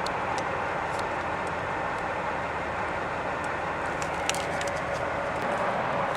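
Steady vehicle noise with a faint hum, broken by a few light clicks.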